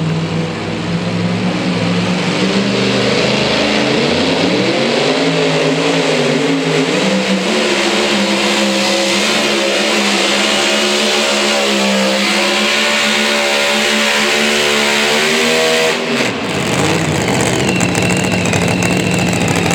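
A two-wheel-drive pulling truck's engine running at full throttle during a pull against the sled. It revs up about four seconds in, holds high with the pitch wavering up and down, then lets off sharply near the end and drops back to a lower, steady speed.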